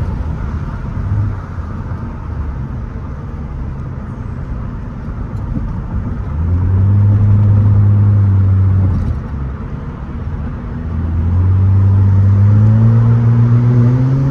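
Straight-piped Nissan Altima exhaust: a low rumble while cruising, then two loud drones as the engine pulls hard, the first about six seconds in, the second starting about eleven seconds in and rising in pitch.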